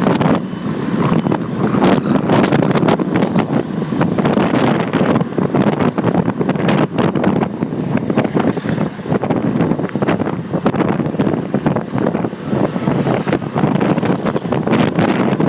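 Wind buffeting the microphone of a phone mounted on a moving motorcycle, over a loud, dense wash of road and traffic noise.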